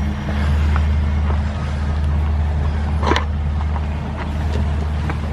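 A steady low motor hum, with a few faint clicks and one brief, sharper sound about three seconds in.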